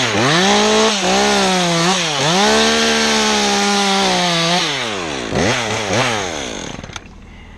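Two-stroke chainsaw running at full throttle, easing off twice, then throttle released with two short blips before it drops back to idle near the end.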